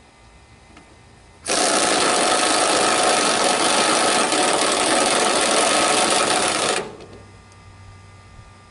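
Impact wrench running in one burst of about five seconds, hammering rapidly as it drives a fastener. It starts suddenly about a second and a half in and cuts off near seven seconds.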